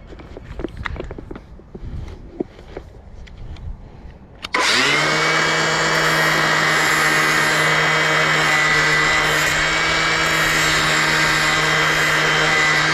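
A few light handling knocks, then an angle grinder fitted with a flap disc is switched on about four and a half seconds in, spins up at once and runs at a steady speed with a high whine, grinding the cutting edge of a garden shear blade.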